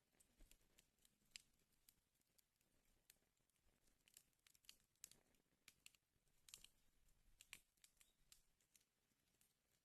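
Faint wood fire crackling in a fireplace: irregular sharp pops and snaps, several a second, over a soft hiss.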